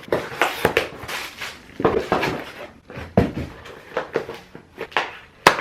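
Packages being opened and handled: irregular rustling and tearing of packaging with clicks and knocks, and a sharp click near the end.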